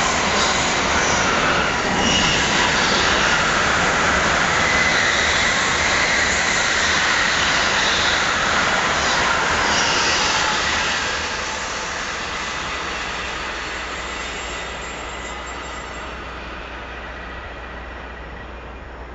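N700-series Shinkansen train passing close at speed: a loud, steady rush of wheel and air noise with a faint thin high tone over it. The rush drops away about eleven seconds in and fades steadily as the train draws off.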